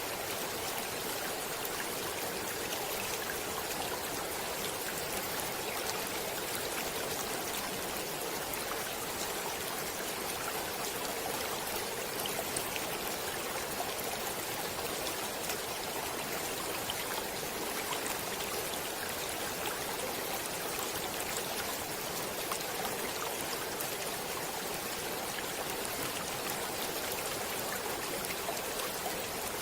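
Stream water running steadily over rocks, a continuous rushing and trickling.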